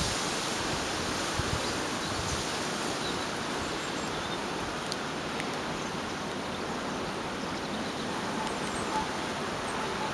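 Gale-force storm wind making a steady, even rushing hiss, with no gusts buffeting the microphone.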